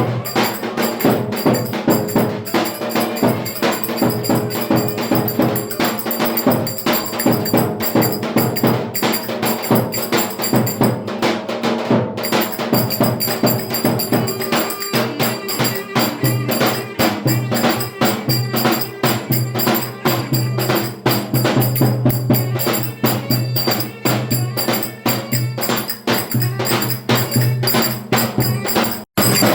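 Turkish folk dance music (oyun havası) with fast, steady percussion and held melody notes; it cuts out for a split second near the end.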